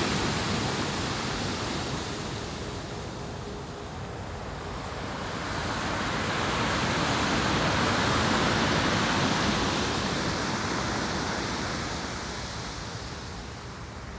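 Ocean surf washing onto a beach, a steady rush that swells to a peak about halfway through and then slowly fades.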